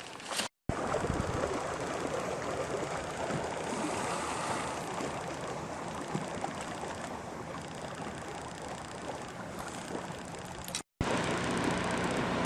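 Steady outdoor rushing of water, cut off twice by a brief dead silence, about half a second in and near the end.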